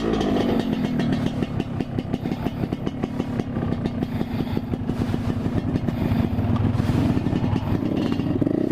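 Yamaha RX-King two-stroke single-cylinder motorcycle engine running on a loud exhaust. Its pitch drops just after the start, holds steady through the middle, then rises again near the end as it is revved up.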